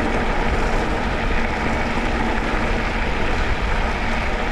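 Wind rushing over the microphone and mountain bike tyres rolling on a dirt double track while coasting downhill: a steady, loud rush.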